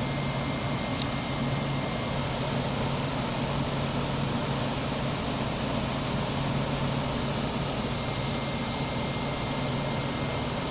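Air conditioner running with its fan on high: an even rush of air over the steady hum of its rotary compressor, which the owner says is an LG. A faint tick about a second in.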